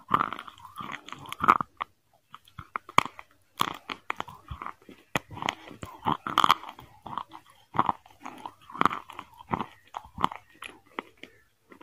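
A person chewing a mouthful of biryani rice, with irregular sharp smacks and clicks several times a second.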